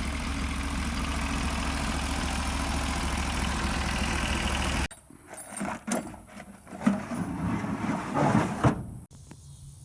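An engine idling steadily with a deep drone, cut off abruptly about five seconds in. After it come a few seconds of irregular knocks and thumps, then a quiet stretch with a faint steady high-pitched insect drone.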